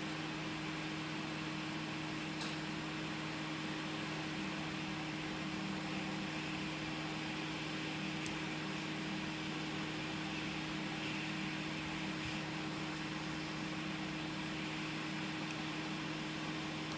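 Hot air rework station blowing steadily, a smooth hiss of air with a low steady hum, while capacitors are heated off a phone logic board. A few faint ticks sound now and then.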